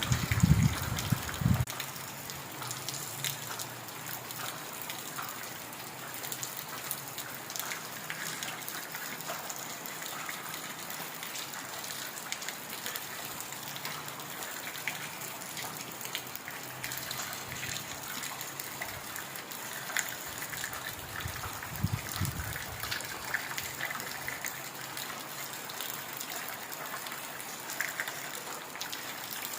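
Heavy rain falling steadily, a dense even patter of drops. A low rumble swells briefly at the start and again about two-thirds of the way through.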